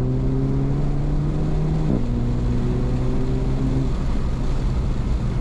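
Renault Mégane 4 RS's turbocharged 1.8-litre four-cylinder accelerating through the gears, heard from inside the cabin. The engine note climbs, drops sharply at an upshift about two seconds in, climbs again, then eases off about four seconds in, leaving steady road and tyre noise.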